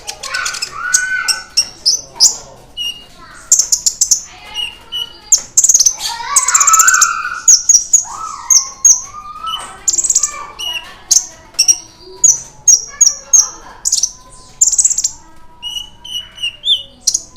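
Kolibri ninja (konin) sunbird singing: rapid runs of short, sharp, very high chirps, with lower warbling, gliding phrases between them.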